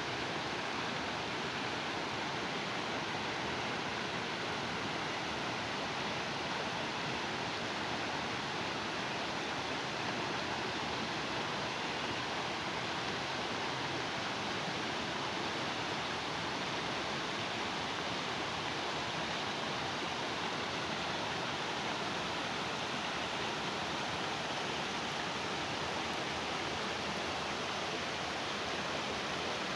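Steady rushing of flowing water from a stream or small cascade, an even hiss with no change in level.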